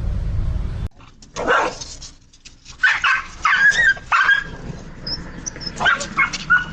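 A dog giving short barks and yelps in quick groups, after a low steady rumble that cuts off about a second in.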